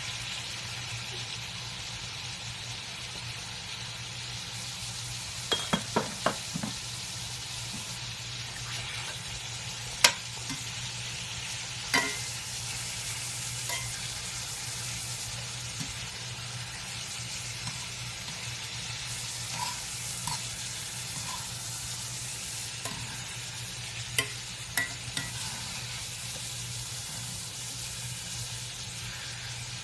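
Chicken thighs sizzling steadily in hot olive oil in a cast-iron pan as they brown, with a few sharp clicks scattered through.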